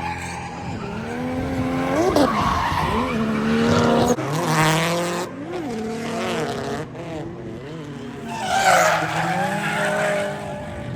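Car engine revving up and down repeatedly while the tyres squeal and skid in a drift, with two louder rushes of tyre noise in the middle and near the end.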